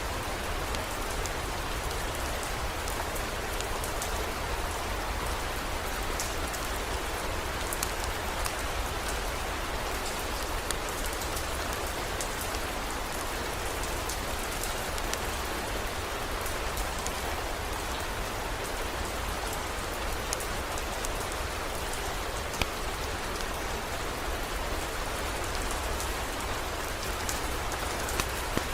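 Steady heavy rain, with scattered sharp drop ticks over a constant low rumble.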